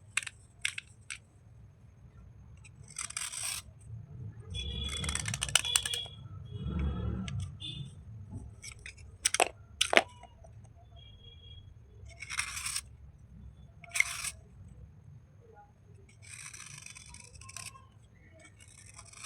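Slate pencil bars and chips being handled during wet cleaning: a series of short scrapes and rubs with sharp clicks as hard pieces knock together. The longest scraping comes a few seconds in.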